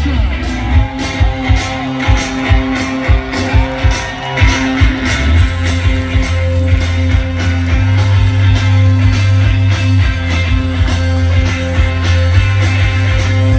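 Rock band playing live: electric guitars over heavy bass and a steady drum beat, loud.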